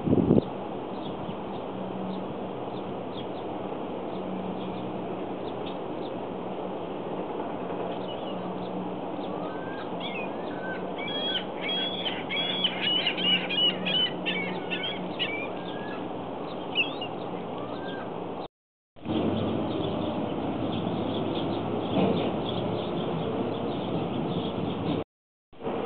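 Small birds chirping in a quick run of short, high calls from about 10 to 17 seconds in, over a steady low background hum. The sound cuts out briefly twice, near the end and at about 18 seconds in.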